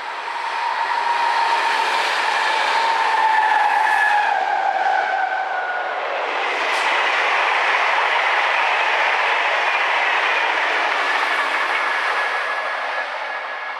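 A train passing by: a rush of running noise that swells, holds and fades away, with whining tones that slide slowly down in pitch as it goes past.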